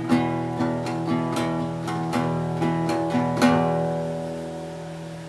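Epiphone Hummingbird acoustic guitar playing the closing notes of a song: several picked notes, then a last strum about three and a half seconds in that is left to ring and fade out.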